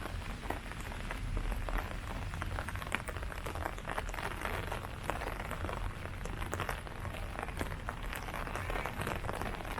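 Steady rain falling on leaves, with many separate drops tapping close by over the hiss of the downpour.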